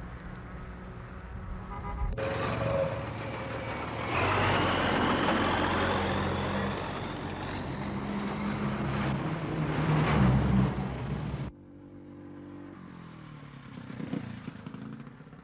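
Vehicle engines running with road traffic noise, the sound changing abruptly several times as the shots change.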